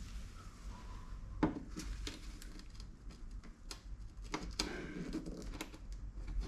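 Scattered light clicks and knocks of parts and tools being handled while a car door's window mechanism is taken apart. The sharpest knock comes about a second and a half in, and two more come a little after four seconds.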